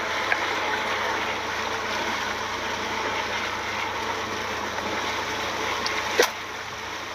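Steady rushing water noise aboard a boat, with one sharp knock about six seconds in.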